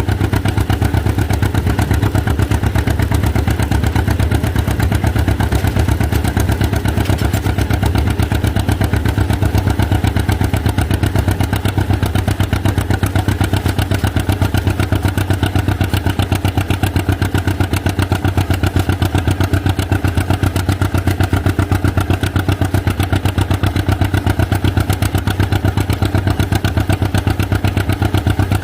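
1949 John Deere G's two-cylinder engine running steadily while the tractor drives in sixth gear, a fast, even beat of firing pulses.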